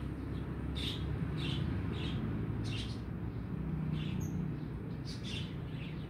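Small birds chirping in short, separate calls at irregular intervals over a steady low rumble.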